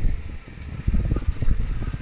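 Wind buffeting the microphone of a moving motorcycle: uneven, gusty low rumbling that surges and dips.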